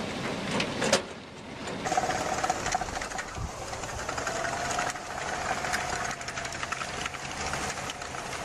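A machine running with a fast mechanical clatter, joined about two seconds in by a steady whine that rises slightly in pitch.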